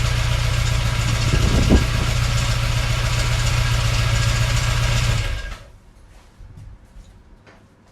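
VW Corrado's VR6 engine idling steadily, with one brief louder blip a little under two seconds in. It is switched off about five seconds in and falls quiet. The owner calls the idle poor.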